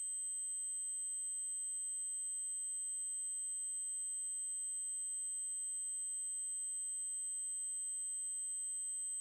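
Synthesized 8192 Hz triangle-wave test tone, a steady, unbroken high-pitched whine at constant level.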